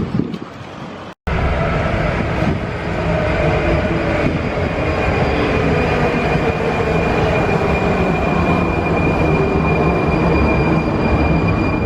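Prague metro 81-71M train running, with a steady rumble and a steady high whine. It starts abruptly about a second in.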